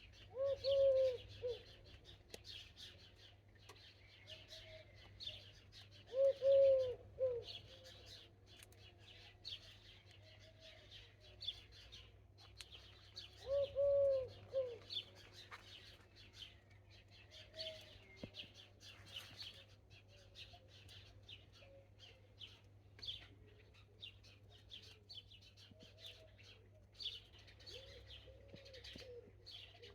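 Garden birds: a pigeon cooing in three loud phrases, near the start, about six seconds in and about fourteen seconds in, over steady high chirping of small songbirds.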